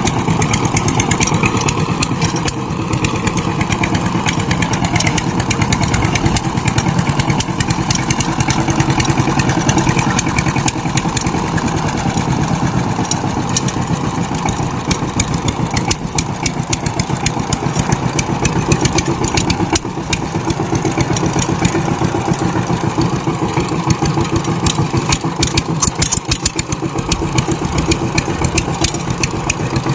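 Power tiller engine running steadily: a fast, even pulse of firing strokes with no change in speed.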